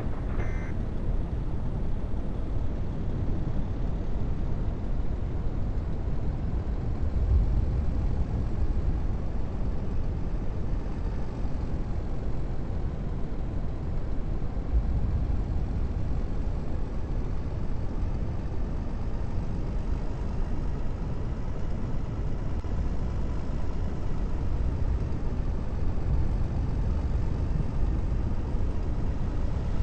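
Steady low rumble of a vehicle driving, engine and road noise heard from inside.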